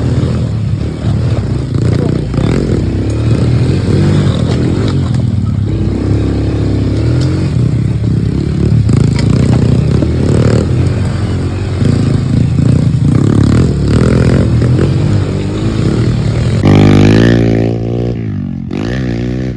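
Pit bike engine revving and easing off repeatedly as it is ridden, the pitch rising and falling. Near the end comes one loud rev that then drops away as the throttle is closed.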